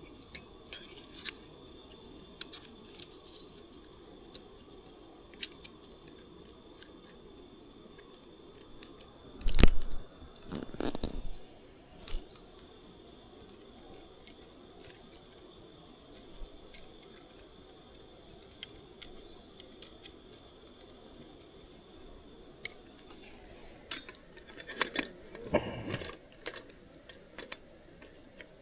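Scattered small clicks and knocks of objects being handled, with two louder bursts of clattering, about ten seconds in and again near the end.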